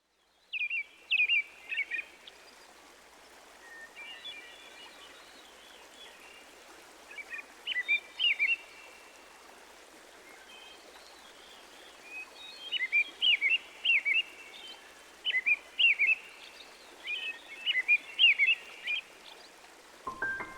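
Songbirds singing in short bursts of quick, rising-and-falling whistled notes, repeated every second or so, over a steady background hiss. There are pauses of a few seconds between groups of phrases, with fainter song in between.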